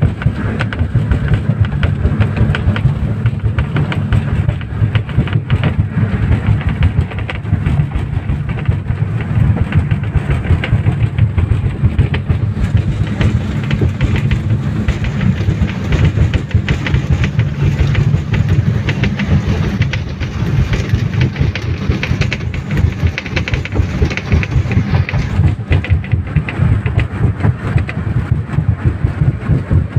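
Passenger speedboat's engines running steadily at speed, with constant rapid knocking of the hull on the water and heavy rain.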